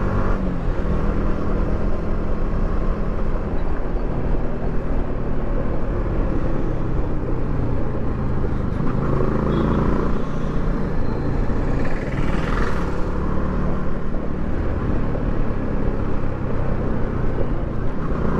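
Yamaha R15 V3's single-cylinder engine running through its stock exhaust while riding, with road and wind noise. The revs drop near the start and climb again about halfway through.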